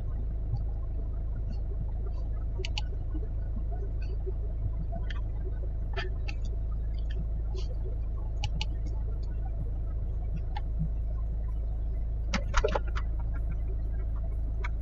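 Steady low rumble of a VW Golf 5 running while stationary, with scattered short sharp clicks, a small cluster of them about twelve seconds in.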